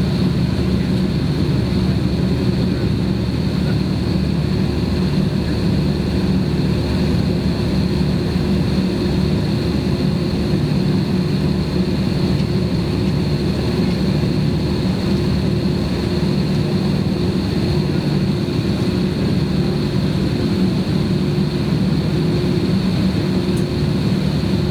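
Airbus airliner's jet engines running steadily at idle, heard from inside the passenger cabin as a constant low hum with a thin high whine, while the plane waits its turn for takeoff.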